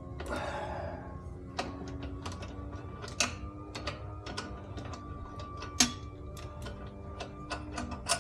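Irregular metallic clicks and taps of bolts, spacers and a bracket being handled and fitted by hand on a motorcycle crash bar, with a short scrape near the start and two louder clicks about three and six seconds in. A leaf blower's steady whine runs underneath.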